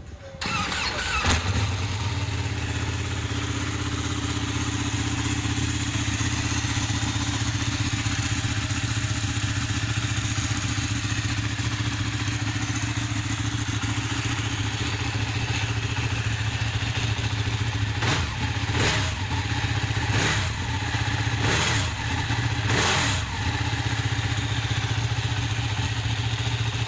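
Ducati 1299 Panigale's 1285 cc Superquadro V-twin cranked by the starter, catching about a second in and settling to a steady idle. A little past halfway it is revved with about five quick throttle blips, then drops back to idle.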